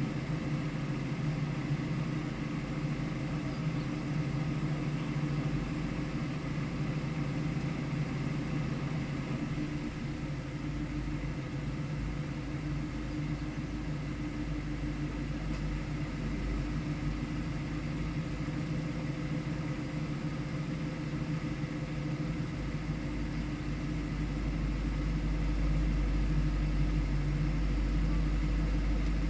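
Car engine idling steadily, with no revving; its low rumble gets louder about three-quarters of the way through.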